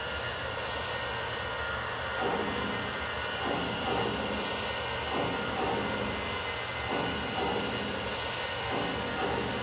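O-gauge model steam locomotive running on the track: a steady rumble and hum from its motor and wheels, with rhythmic chuffing from its sound system starting about two seconds in.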